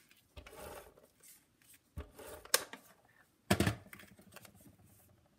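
Paper and crafting tools handled on a work table: a brief rustle, a sharp click, then a louder knock as a tool is set down or picked up.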